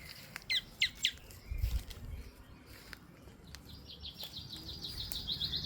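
Wild songbirds calling: three sharp, quick downward chirps about half a second in, then a fast, high trill of rapidly repeated notes from about three and a half seconds on. A brief low rumble comes between them.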